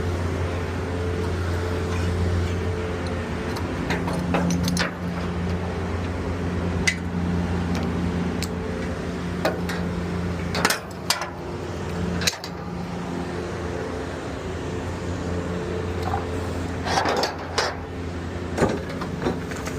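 Garbage truck's diesel engine running steadily as its hydraulics lift and dump an 8-yard dumpster, with a series of sharp metal clanks and bangs from the container at irregular intervals, several of them close together near the end.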